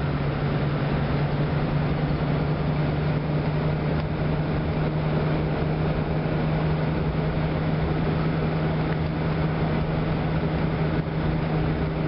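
1936 Ford's flathead V8 running steadily at cruising speed, heard from inside the cabin, as an even low drone over a constant rushing road and wind noise.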